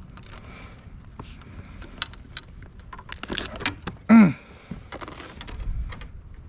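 Scattered small clicks and rattles of handled gear on a fishing kayak. About four seconds in comes a brief, loud vocal-like sound that drops in pitch.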